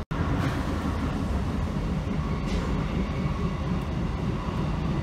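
Steady running noise heard inside a JR 719 series electric train: a low rumble of wheels on rail as it climbs a grade, with a faint motor tone. The sound drops out for an instant right at the start.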